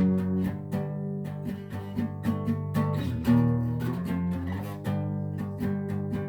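Acoustic guitar music, a steady run of plucked and strummed chords.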